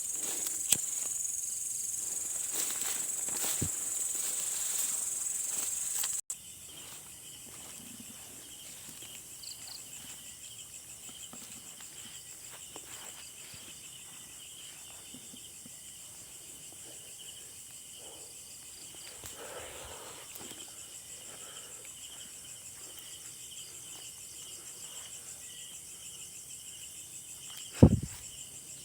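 Steady, high-pitched chirring of night insects, crickets among them. The chorus drops sharply about six seconds in and carries on quieter, and a single sharp knock sounds near the end.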